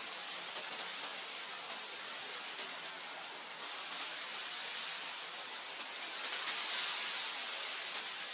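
Wind blowing over grassland: a steady rushing hiss that swells into a stronger gust about three-quarters of the way through.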